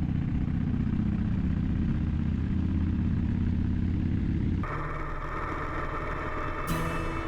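2007 Victory Vegas V-twin engine running under way, a steady low rumble. About four and a half seconds in, the sound changes abruptly to a thinner mix with more wind-like noise, and sharp ticks come in near the end.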